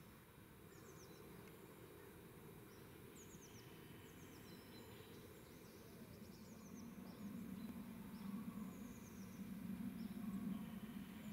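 Faint lakeside ambience: a small songbird gives a string of short, high, falling chirps about a second apart. Under it, a low hum swells and grows louder from about six seconds in.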